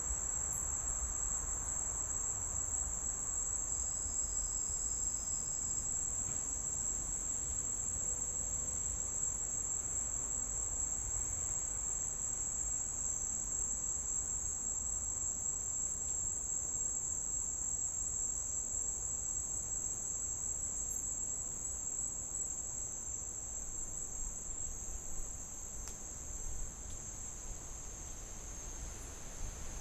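Insects trilling steadily in one continuous high-pitched drone, with a low rumble underneath.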